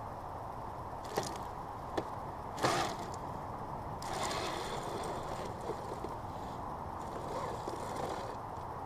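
Kyosho Blizzard RC snowcat running over snow: a faint, steady whine from its Traxxas 380 electric motors and its tracks working through the snow, with sharp clicks or knocks at about one, two and nearly three seconds in, the last the loudest.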